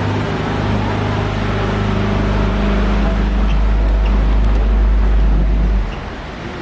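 Tour boat's motor running with a steady low hum, which drops off abruptly about six seconds in as the boat comes in to dock.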